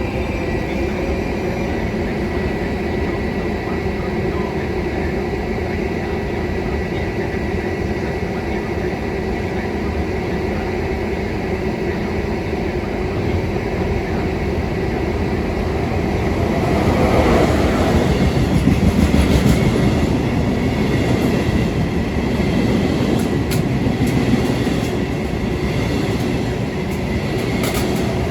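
Train passing through a station: a steady rumble of wheels on the rails that grows louder about two-thirds of the way through, followed by clicks of wheels crossing rail joints.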